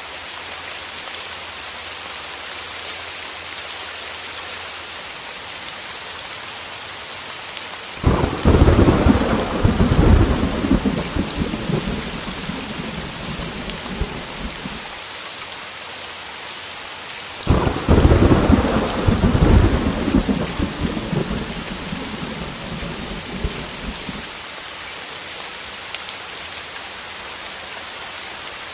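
Heavy rain on a window, steady, with two thunder claps starting about 8 and 17.5 seconds in, each cracking suddenly and then rumbling away over several seconds.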